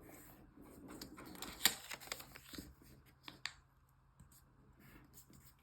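Origami paper rustling and crinkling as it is folded and creased by hand, with a few sharp clicks; it grows quieter about two-thirds of the way through.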